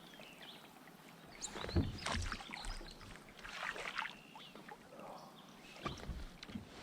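Irregular splashes and knocks of water and gear around a fishing kayak while a hooked bass is fought to the boat.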